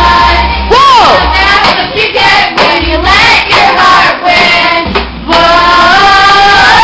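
Music with young female voices singing over a steady bass, ending on a long held note about five seconds in.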